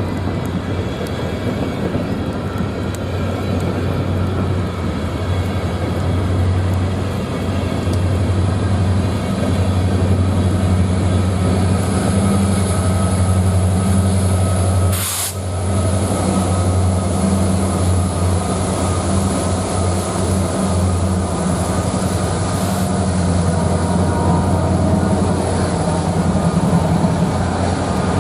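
Train running past: a steady low drone with a rolling rumble over it. A single sharp click about halfway through briefly interrupts it.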